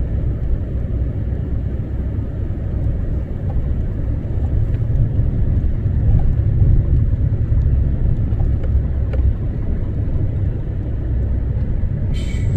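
Truck running with a steady low rumble, heard from inside the cab, swelling a little midway.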